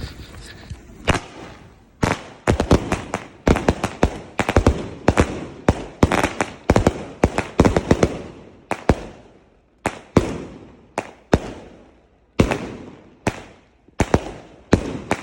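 Two 16-shot color-to-salute consumer firework cakes firing together, a fast string of sharp bangs from the shells' salute reports. The shots come thick and overlapping at first, then thin out to single bangs about every half second to a second.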